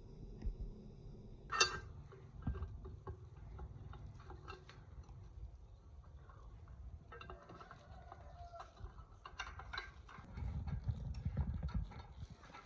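Scattered light knocks and clicks over a low rumble, with one sharp, loud click about a second and a half in.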